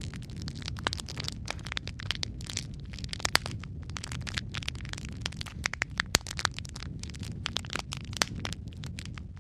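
Fireplace fire crackling: frequent irregular sharp pops and snaps over a low steady rumble, with the loudest snaps about three and a half and six seconds in.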